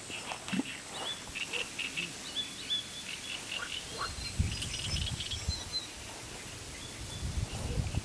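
Small birds chirping and calling in short, repeated high notes, over a steady outdoor background. A low rumble comes in about halfway through and again near the end.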